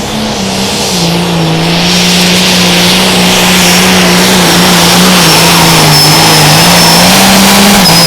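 A Limited Pro Stock pulling tractor's turbocharged diesel engine running loud at full throttle under load on a pull, with a high turbo whistle over it. The engine pitch drops a step about a second in, holds as the tractor drags the sled, and starts to fall right at the end as the throttle comes off.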